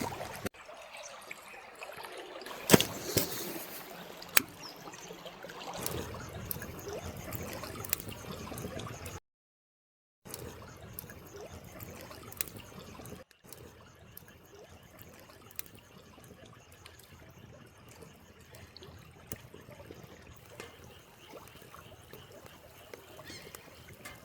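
A small stream trickling and gurgling, with sharp crackles and pops of a wood fire in the first several seconds. The sound cuts out completely for about a second midway.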